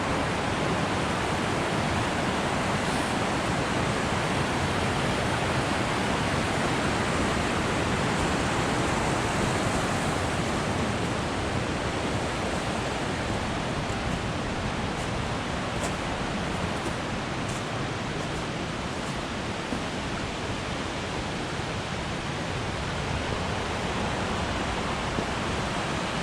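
A large waterfall (Compression Falls) rushing steadily, a continuous full wash of falling water.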